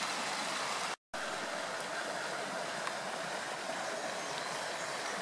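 Creek water running steadily, an even rushing noise that breaks off to silence for an instant about a second in.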